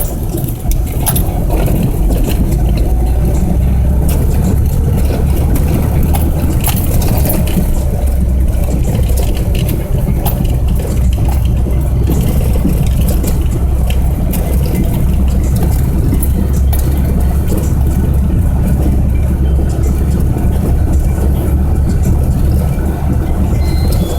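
Steady, loud low engine rumble of a vehicle in motion, with scattered faint clicks over it.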